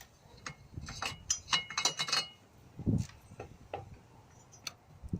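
Metal hand tools and engine parts clinking and knocking as they are handled: a scatter of sharp clicks, a cluster of clinks with a short metallic ring between about one and two seconds in, and a dull knock about three seconds in.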